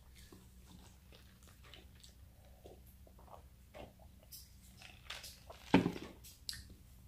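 Chewing and wet mouth sounds from someone eating squid, then a few sips from a cup. A plastic cup knocks down onto a glass tabletop near the end, the loudest sound.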